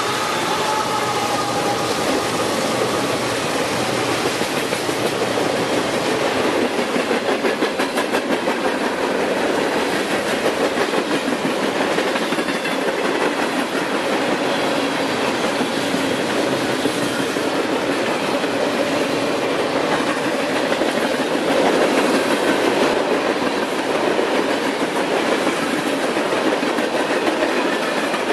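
Freight cars of a passing CSX freight train rolling by close up: a steady rumble of steel wheels on rail, with rapid clicks as the wheels cross the rail joints.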